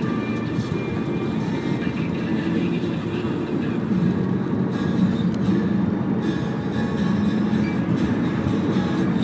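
Toyota Camry 2.4 on the move: a steady rumble of road and engine noise.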